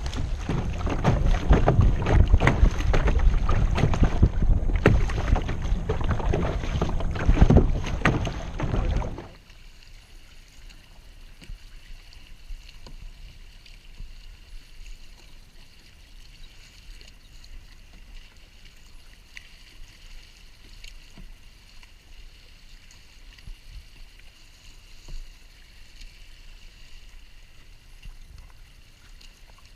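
Wind buffeting the microphone on a kayak for about the first nine seconds, cutting off suddenly; after that, quiet water sounds around the kayak with small splashes.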